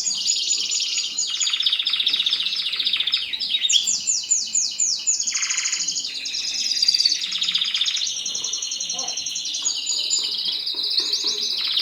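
Mosaic canary singing a long, unbroken song of rapid trills, one run of quick repeated notes following another with no pause.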